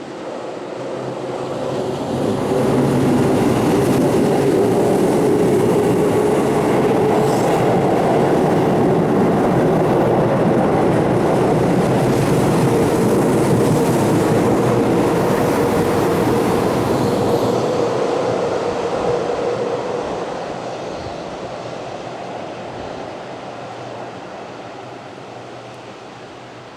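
Keihan 8000 series electric train going by, its running noise and wheels on the rails building over the first few seconds, holding steady with a steady hum, then fading away over the last several seconds.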